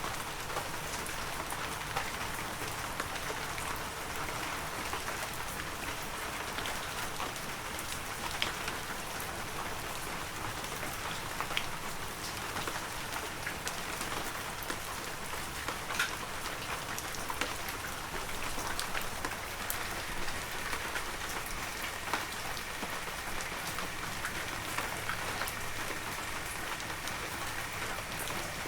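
Heavy rain falling steadily, a dense even hiss with many sharper drop hits ticking on nearby surfaces.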